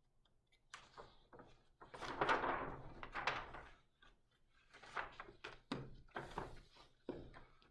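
Pages of a large-format big book being turned and handled: paper rustling and flapping with a few dull thuds, in two main bursts.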